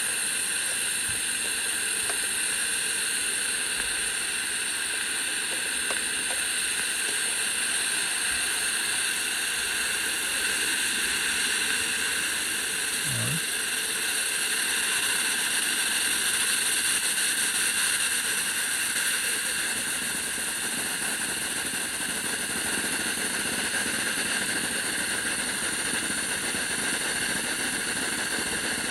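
Steam hissing steadily out of a Breville BES990 espresso machine's opened steam-boiler drain valve as the boiler's pressure is released for descaling.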